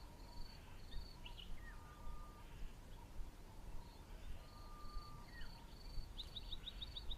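Faint wild birdsong: repeated phrases of quick high notes with a lower held whistle, coming back several times.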